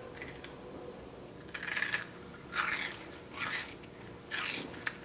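A person chewing a crumbly snack with her mouth open: loud wet chomps, about one a second, four strong ones in a row.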